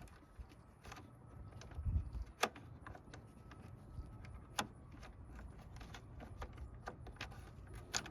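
Scattered metallic clinks and clicks of hand tools and parts being handled during radiator removal, with a dull thump about two seconds in and sharper clicks at about two and a half and four and a half seconds.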